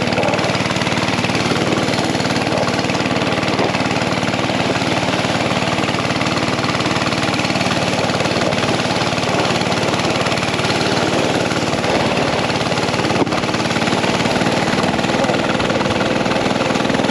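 Mini bike engine running steadily at an even speed while towing a sled, with a fast, even firing pulse and no change in pitch.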